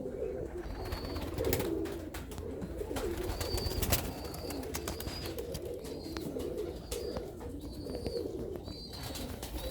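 Several Serbian Highflyer pigeons cooing over and over in low warbling phrases, with short high peeps and light clicks over them.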